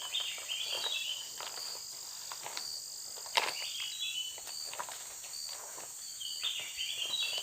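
Steady chorus of crickets and other insects, with a short run of chirps that repeats three times about three seconds apart. A few small handling clicks and one sharp knock about a third of the way in.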